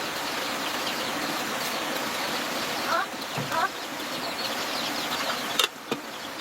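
Small birds chirping in a few short calls over a steady hiss, with two sharp knocks near the end.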